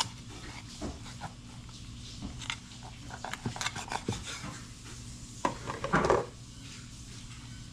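Knife clicking and tapping against bone and the cutting surface while a whole chicken is cut up, with a brief louder sound about six seconds in, over a faint steady low hum.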